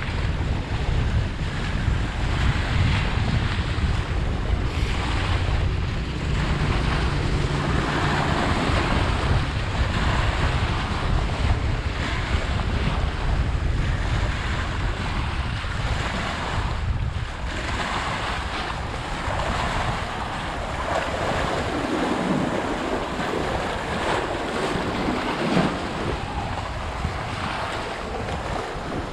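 Strong wind buffeting the microphone in a heavy low rumble, with waves washing on the lake. The rumble eases a little in the last third.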